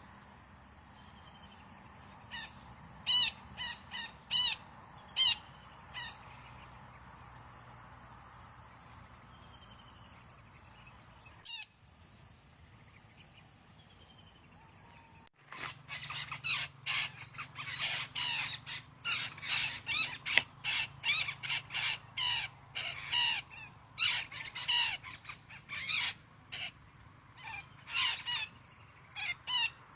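Long-tailed parakeets squawking: a few spaced calls in the first six seconds, then, after a sudden break about halfway through, a dense run of rapid harsh calls.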